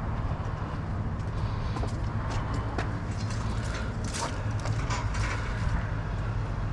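A vehicle engine running steadily as a low hum, with scattered light clicks and knocks over it.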